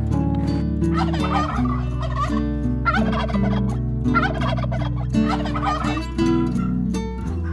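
A turkey gobbling four times, each call a quick warbling rattle, over background music.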